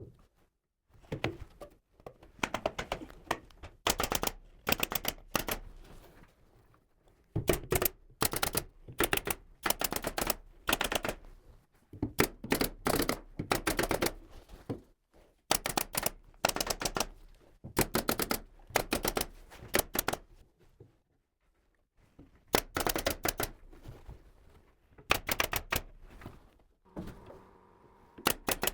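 Pneumatic nail gun firing in quick bursts while framing a suspended ceiling: clusters of sharp clacks, several to the second, with short pauses between the clusters.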